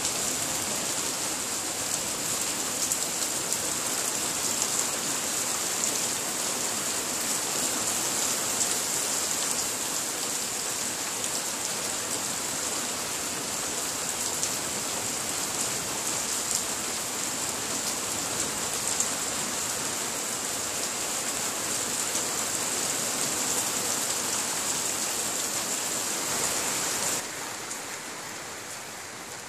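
Heavy rain falling steadily, with many fine drop impacts through an even hiss; the sound drops suddenly in level near the end.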